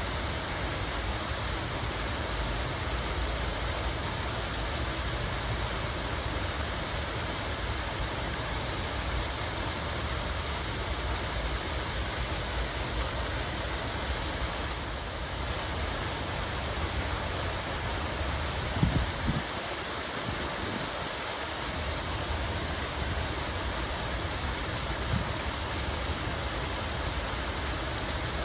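Steady rushing of running water, an even noise without pauses. A few short, low thumps come about two-thirds of the way through, the loudest moment.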